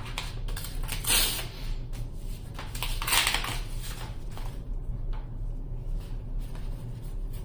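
Trading cards and pack packaging being handled: scattered light clicks and taps, with two short rustling swishes about one and three seconds in, over a steady low hum.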